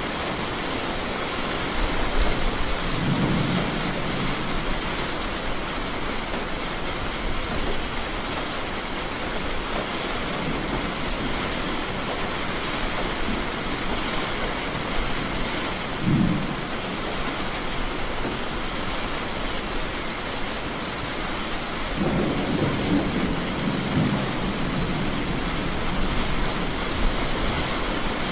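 Steady rain with thunder rumbling low three times: a roll a few seconds in, a short clap about halfway, and a longer roll from about three-quarters of the way through.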